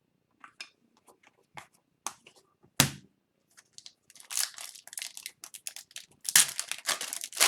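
Hockey card pack wrapper being torn open and crinkled, with a sharp crack a little under three seconds in and dense crinkling through the second half, among light clicks of cards being handled.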